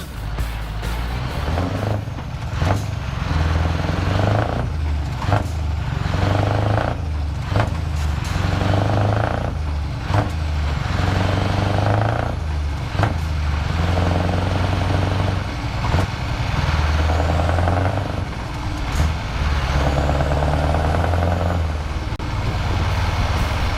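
Scania R 560 V8 truck engine pulling away and accelerating, the note cut by a short break every two to three seconds as it shifts up through the gears.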